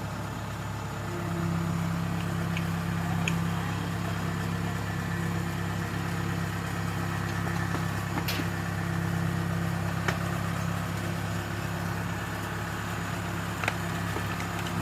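A large engine running at a steady speed, its hum growing louder about a second in and then holding, with a few short sharp clicks over it.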